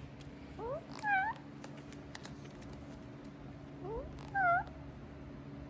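Two meow-like calls about three seconds apart, each a short rising note followed by a louder, wavering call.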